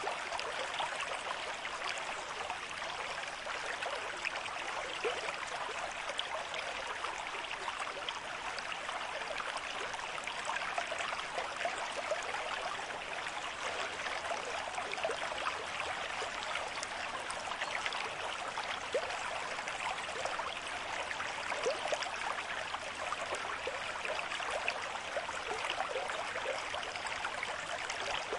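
Stream of moderate flow babbling and gurgling over stones, a steady rush of water with many small splashes and bubbling notes through it.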